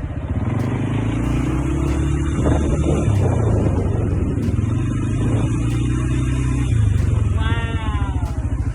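ATV engine running steadily as it is ridden, its pitch shifting a little as the throttle changes. Near the end a voice calls out once in a falling tone.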